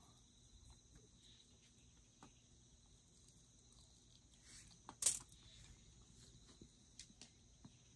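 Faint, steady chirping of insects, with a few small clicks and one sharp crack about five seconds in.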